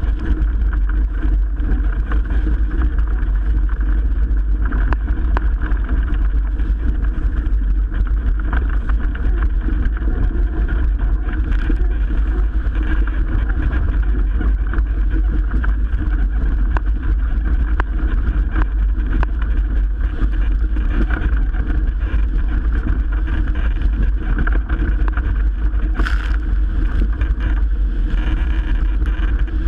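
Steady, loud wind rumble on the microphone with water rushing aboard a Melges 24 sailboat under way in strong wind. A brief crackle comes near the end.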